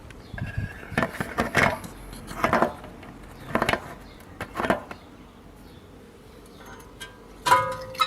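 Metal tools and brake parts clinking and knocking together, about six separate hits, some leaving a short metallic ring, during front brake pad and disc work.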